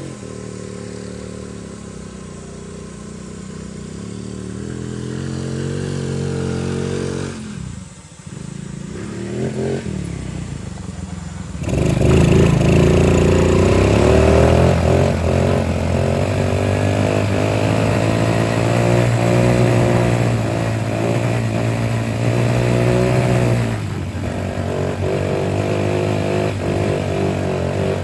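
Motor vehicle engine running, its pitch rising and falling with the revs. It drops away briefly about eight seconds in, then gets louder about twelve seconds in and stays loud.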